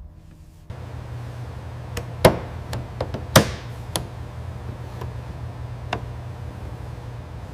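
A series of sharp knocks and clicks, about six spread over several seconds, over a steady low hum that starts just under a second in.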